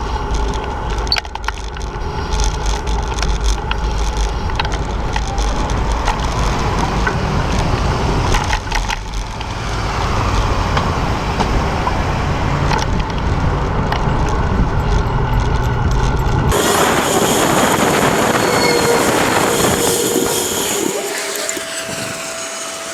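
City street traffic heard while moving along the road, with a heavy low rumble under it. About two-thirds of the way through it changes abruptly to a brighter, hissing traffic sound.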